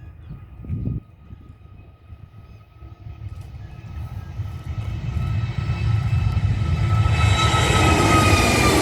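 Airbus A320neo's twin turbofan engines at takeoff power, their whine and roar growing steadily louder as the jet approaches. Near the end the whine begins to drop in pitch as it passes. Wind buffets the microphone briefly at the start.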